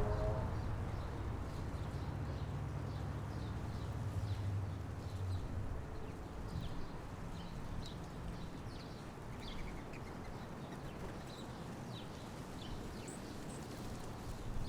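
Small birds chirping in short, scattered calls, with a low rumble underneath that stops about five seconds in.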